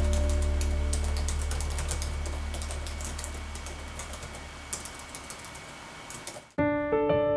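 Typing on a computer keyboard: irregular key clicks over a low, fading music tone. About six and a half seconds in, the typing stops and piano music starts abruptly.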